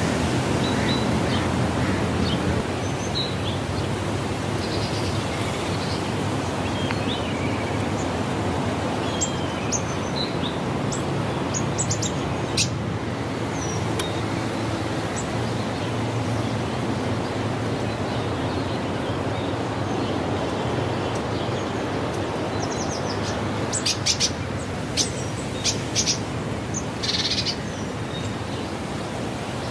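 Birds chirping and calling over a steady outdoor background hiss, with a run of sharp, louder calls near the end.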